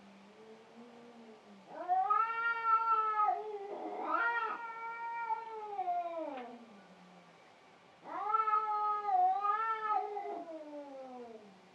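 Domestic cat yowling in long, drawn-out meows: a faint low call at the start, then two long calls of several seconds each, the first about two seconds in and the second about eight seconds in, each sliding down in pitch at the end.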